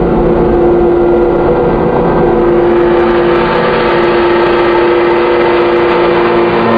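Handmade three-oscillator analog drone/noise synth, Dirty Drone #21, playing a loud sustained drone through reverb: several steady tones under a rough, noisy wash that grows brighter as it goes, with the low tones shifting near the end.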